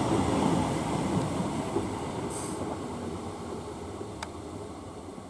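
Class 321 electric multiple unit train running on the track, its rumble fading steadily. A short hiss comes about halfway through, and a single sharp click near the end.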